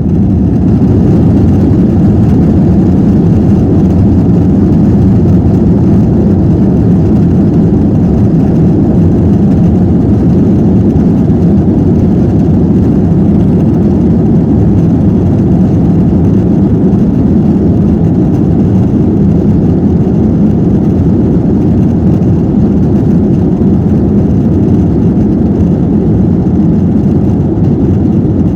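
Airliner's jet engines at takeoff power, heard inside the passenger cabin: a loud, steady rush of low noise that has just built up and holds without letting up.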